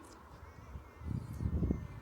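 Footsteps in snow: a few short crunching steps starting about a second in.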